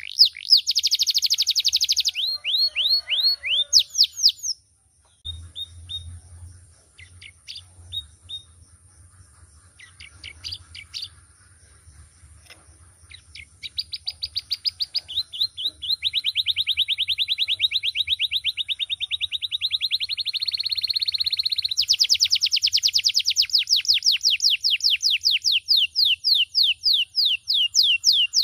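Male domestic canary singing: fast trills of rapidly repeated high notes, a quieter stretch of scattered short chirps in the middle, then long unbroken rolling trills that carry on to the end. A faint low hum lies under the second half.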